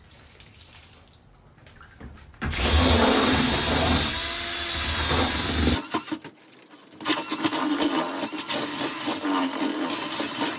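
Power drill with a mixing paddle churning thinset mortar in a bucket. It starts about two and a half seconds in with a steady whine, stops briefly around six seconds, and starts again a second later.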